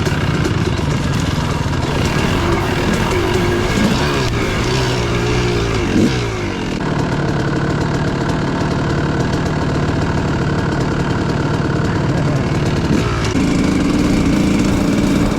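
250cc dirt bike engine running on the move, its pitch rising and falling several times over the first few seconds as the throttle is worked, then holding steadier, with a step up in pitch near the end.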